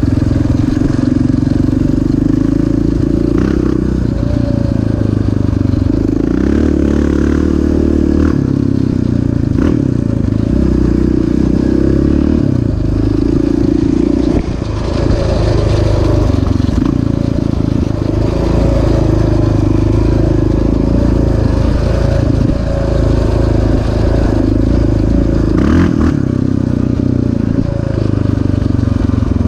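Off-road engine of a quad or dirt bike running hard on a motocross track, revs climbing and dropping with throttle and gear changes, with a short drop in revs about halfway through.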